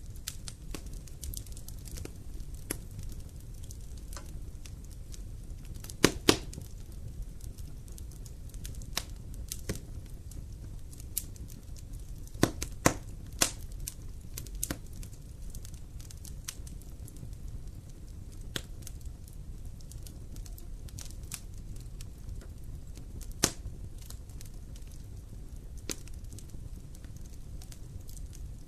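Campfire burning: wood crackling with scattered sharp pops over a low, steady rumble of the flames. The loudest pops come as a pair about six seconds in, a quick cluster around thirteen seconds, and a single one near twenty-three seconds.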